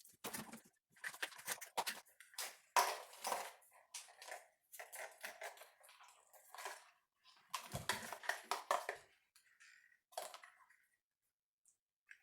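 Car engine wiring harness being handled and pulled apart: irregular crackling and rustling of wires, plastic loom and tape. The handling stops shortly before the end.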